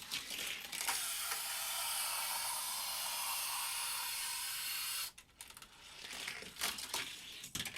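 Hot Wheels die-cast truck (the Hollinator) rolling along plastic track with a steady rolling hiss for about four seconds. This is followed by a clatter of small knocks and clicks as it runs through the track's loops and curves and reaches the jump.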